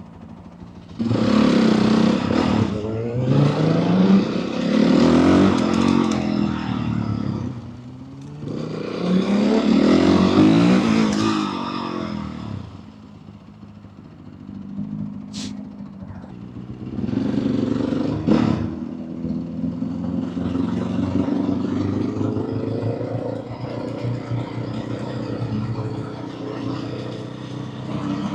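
Motorcycle engine accelerating hard under wind rush, its note climbing and dropping through the gears in three strong pulls, then easing off. Another pull comes about eighteen seconds in, followed by steadier cruising.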